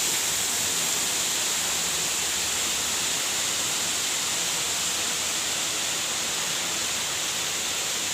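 Waterfall's falling water making a steady, even rushing hiss.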